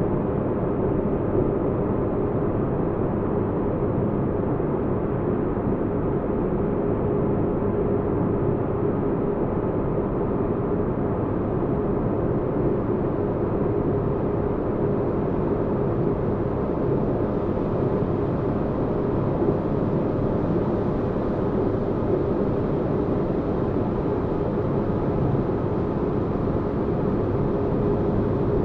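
Sci-fi spaceship interior ambience: a steady, deep rumbling hum of noise with a faint held tone. It grows slightly brighter in the second half.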